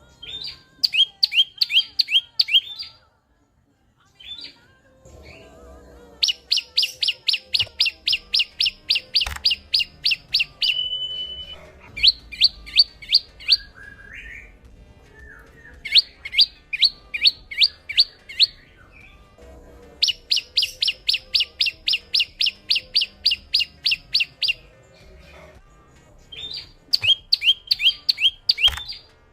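Olive-backed sunbird singing: loud, fast trills of sharp, repeated high notes at about four a second, each trill lasting a few seconds with short pauses between, and one brief held whistle partway through.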